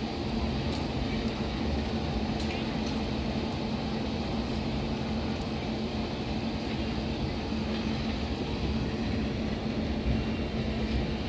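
Passenger train moving slowly out of a station: a steady rumble and hum, with a few sharp clicks in the first few seconds.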